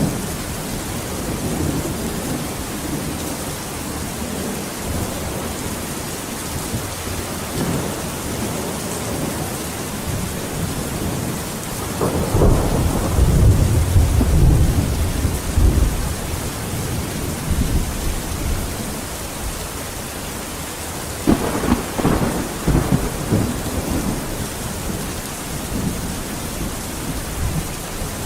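Steady heavy rain, with thunder rumbling low twice: a long roll about twelve seconds in and another about twenty-one seconds in.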